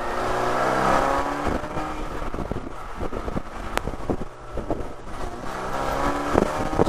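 Saturn Sky's 2.4-litre Ecotec four-cylinder engine under way, heard from the open cockpit. The engine note is strong in the first second or so, eases off through the middle, and climbs again near the end as the car accelerates.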